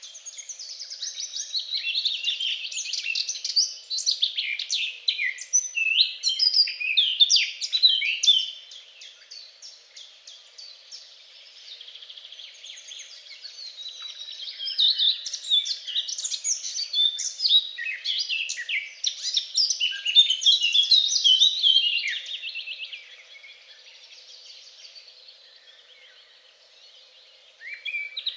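Birdsong: long, fast, varied phrases of high chirps and trills, in two long bouts with a quieter pause of a few seconds between them.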